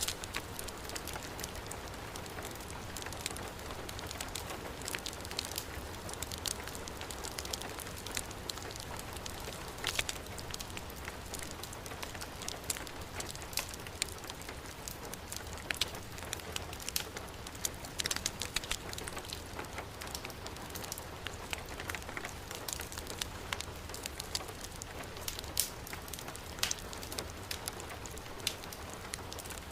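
Heavy rain falling steadily, with a wood fire crackling: frequent short sharp pops over an even hiss.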